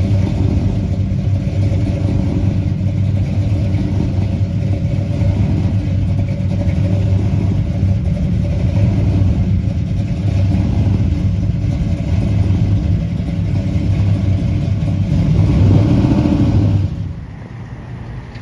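Car engine running steadily close by, swelling briefly before it drops away sharply near the end.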